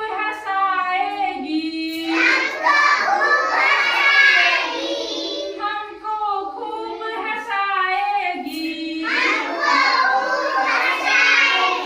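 Children chanting a Hindi rhyme in call and response: a single voice sings a line, then a group of voices repeats it louder. This happens twice.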